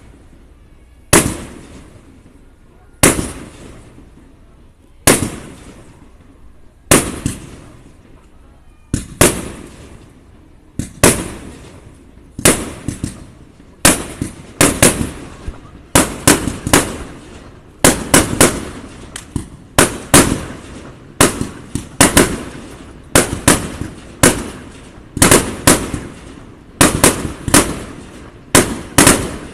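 Aerial firework shells bursting one after another, each a sharp bang trailing off in an echo. At first about one every two seconds, then faster from about halfway on, with quick double and triple bangs.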